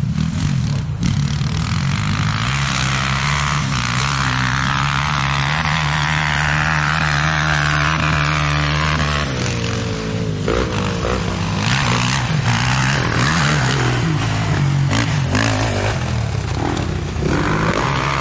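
Motorcycle engine running under way, its note changing about halfway through, with a steady rush of wind noise over it.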